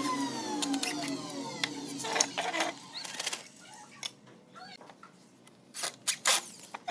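A power tool's electric motor winds down after being switched off, its whine falling in pitch over about a second and a half. Scattered clicks and knocks follow, with a few loud knocks near the end.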